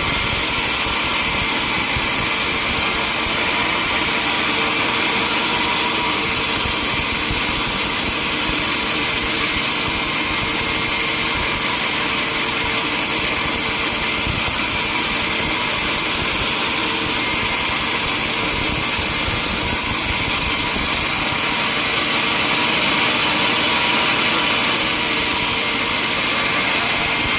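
Sawmill saw running steadily and cutting through wood, with engine noise under it: a loud, unbroken din.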